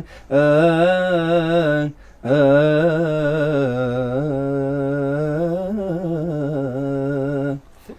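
A man's unaccompanied voice singing in maqam Bayati: two long melismatic phrases with vibrato. The second is held for about five seconds, with a short breath between them.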